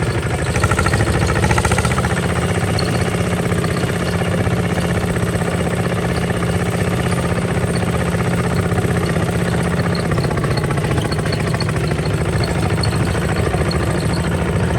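Kubota RT 140 DI single-cylinder diesel engine on a walking tractor running steadily with a fast, even firing beat.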